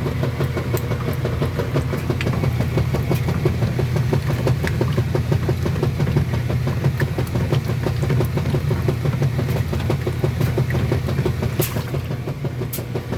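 Kenmore washing machine running: a steady low motor hum with a fast, dense rattle, and a couple of sharp clicks near the end.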